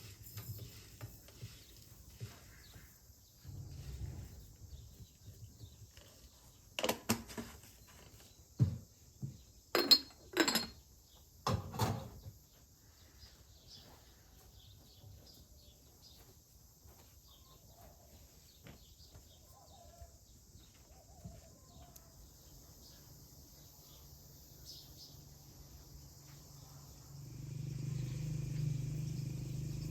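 Five or six sharp knocks and clatters clustered between about seven and twelve seconds in, over faint quiet background. A low steady hum comes in near the end.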